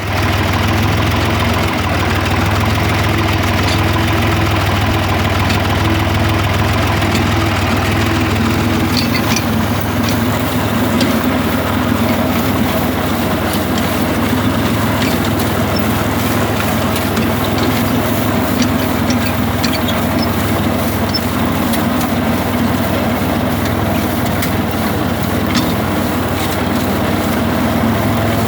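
Tractor engine running steadily at a constant speed. Light clicks and rattles join in from about nine seconds in.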